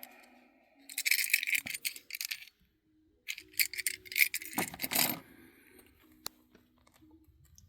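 Small metal objects jangling and clinking as they are handled, in two bouts: one about a second in and a louder one from about three to five seconds in, the second with a dull knock.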